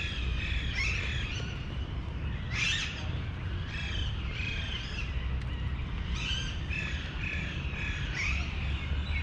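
Many small birds chirping and calling at once, short overlapping calls throughout, over a steady low rumble.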